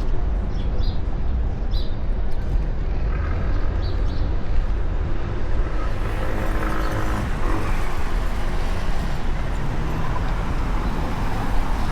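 Street traffic noise heard while riding a Onewheel through the city, with wind rumbling on the microphone underneath.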